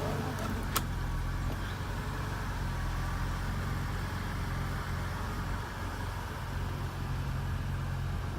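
1974 BMW 2002tii's fuel-injected four-cylinder engine idling steadily, with one sharp click about a second in.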